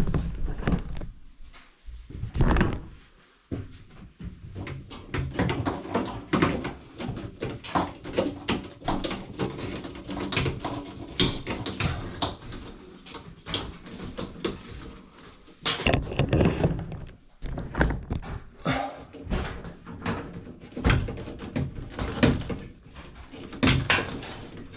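Irregular knocks, clunks and scrapes of a front-load washing machine being handled and slid back into place, with a heavy clunk about two seconds in and another cluster of loud knocks past the middle.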